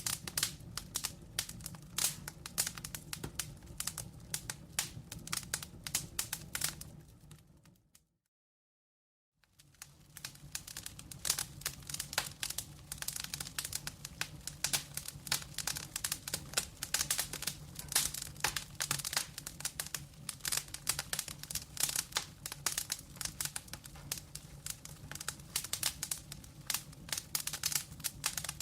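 Wood fire in a fireplace crackling and popping with many sharp snaps over a low rumble of the flames. About seven seconds in it fades to total silence for a second or so, then fades back in, where the recording is looped or joined.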